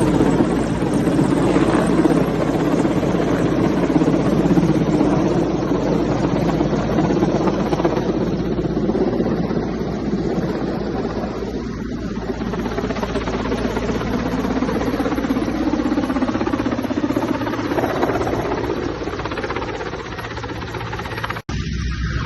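Mi-8 helicopter's twin turboshaft engines and rotor running loudly and steadily as it comes in to land. The sound cuts out for an instant near the end.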